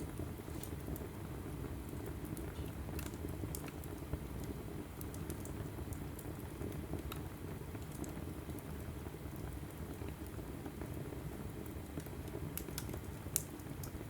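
Logs burning in a wood fireplace: a steady low rumble of flame with scattered crackles and pops, one sharper pop near the end.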